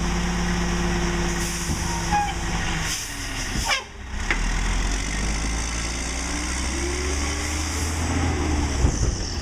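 Mack LE garbage truck's diesel engine running steadily, broken by a short, sharp sound with a quick falling sweep about four seconds in. The engine note then climbs about seven seconds in.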